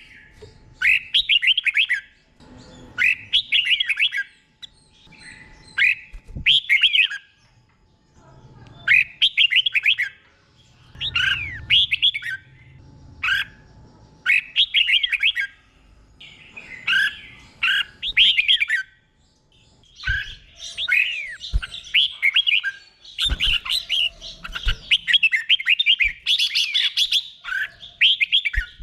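Red-whiskered bulbul singing: short, clear warbled phrases repeated with brief pauses, running together almost without a break in the last third.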